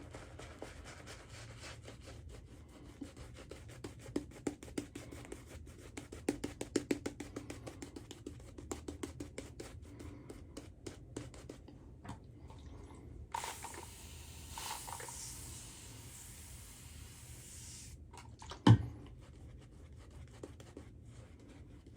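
Razor scraping through lathered stubble in runs of short, rapid strokes. Later there is a brief hiss, then a single sharp knock near the end.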